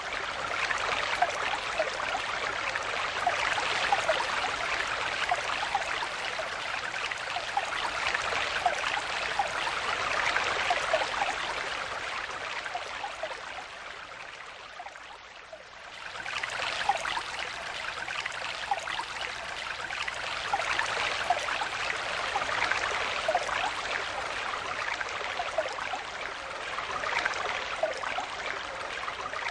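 Stream water flowing steadily, with small gurgles and bubbles among the rush. About halfway through it fades down briefly, then comes back up.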